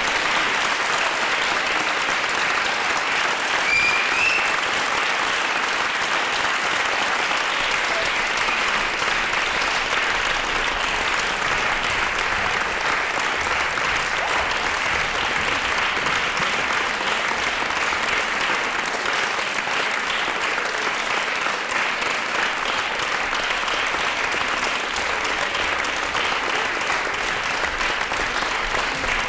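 Large audience clapping steadily and continuously, with a short rising whistle from the crowd about four seconds in.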